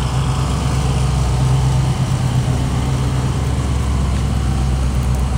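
An engine idling steadily, a constant low rumble with no revving.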